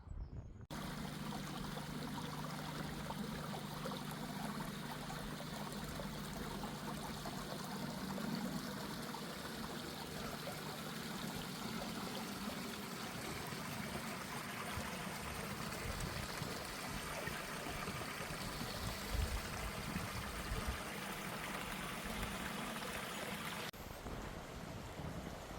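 A stream running: a steady rush of water, which changes abruptly to a quieter sound near the end.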